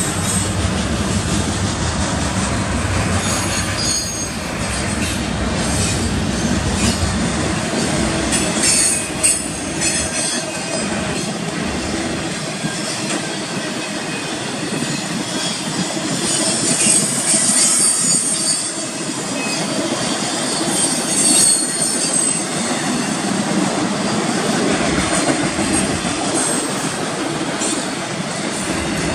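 A freight train passing close by: the diesel rumble of the trailing EMD SD70M locomotive fades over the first ten seconds or so, then double-stack intermodal well cars roll past with a steady wheel-on-rail rush and intermittent high wheel squeal.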